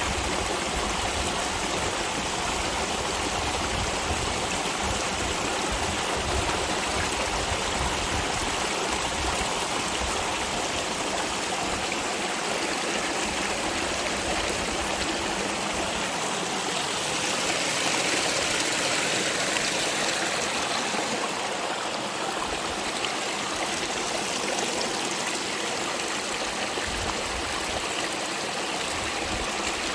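Mountain spring stream rushing and splashing over rocks, a steady even flow of water that swells slightly about two-thirds of the way through.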